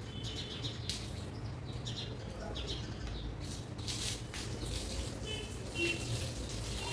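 Wet long hair being washed under a tap, heard as short irregular splashes and rubbing noises over a steady low hum. Birds chirp briefly in the background, most clearly near the end.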